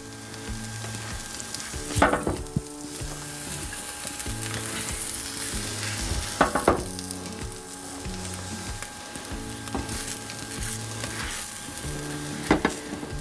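Onions, peppers and mushrooms sizzling on a hot electric griddle while a spatula scrapes them up and moves them onto a plate, with a few sharp clacks of the spatula about 2 seconds in, midway and near the end.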